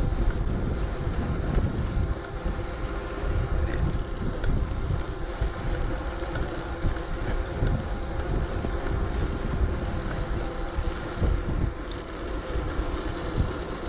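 Wind buffeting an action-camera microphone on a moving electric bike, a continuous gusty rumble, over a faint steady hum from the ride.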